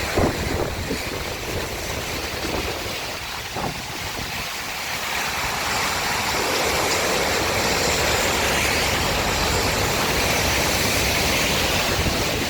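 Steady rush of water from a river in flood, mixed with wind rumbling on the microphone. The rush grows fuller and louder about six seconds in.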